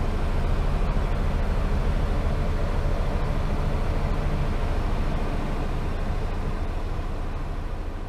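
Honda Acty van's engine running steadily, a low hum that fades out toward the end.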